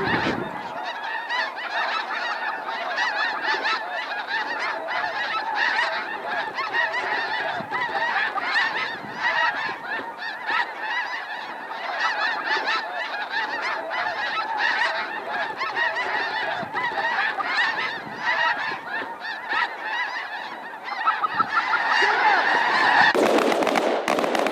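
A large flock of snow geese calling: dense, continuous, overlapping honking and yelping. In the last second, a quick run of sharp cracks sets in, shotgun fire at the birds.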